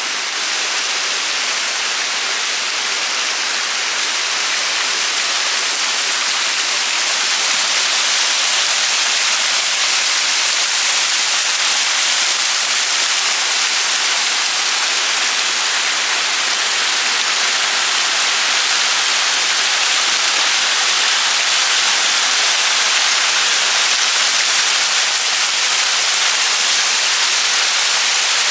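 Steady hiss of falling water, a continuous even wash with no distinct drops or splashes, growing slightly louder about seven seconds in.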